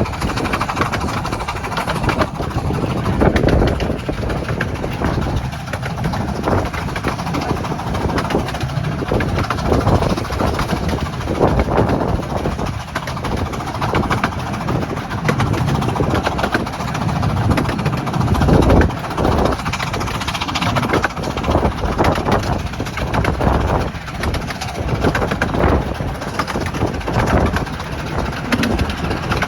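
Miniature railway train running along the track, heard from aboard: a steady, loud rumble of the running train with irregular low surges.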